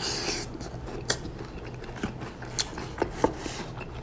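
Takeout food packaging being handled and opened: a short rustle at the start, then scattered light clicks and taps as containers are moved and opened.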